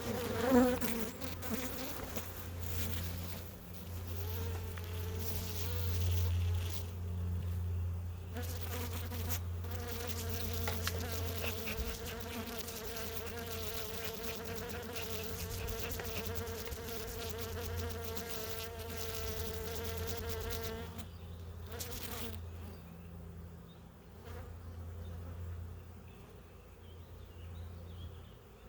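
Honeybees buzzing around an open hive during an inspection. A loud buzz passes close about half a second in. A single steady, pitched drone holds from about ten seconds in and cuts off abruptly near twenty-one seconds.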